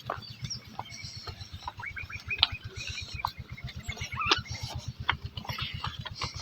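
Birds chirping in short calls, over a low, fast, even thudding like a small engine running.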